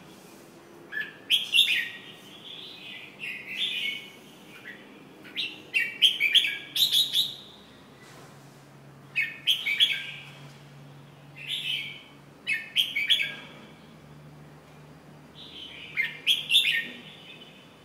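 Red-whiskered bulbul (jambul) singing: short phrases of bright, chirpy notes, repeated every couple of seconds.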